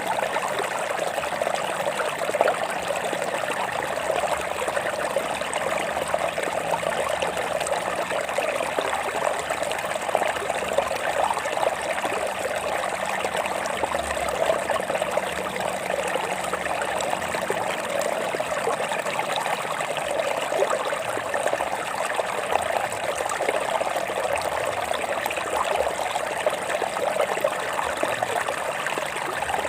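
Water trickling and splashing over rocks in a small stream, a steady babbling with small splashes that flicker throughout.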